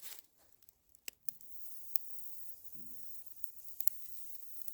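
Sausages starting to sizzle faintly on a charcoal grill, with a few light clicks.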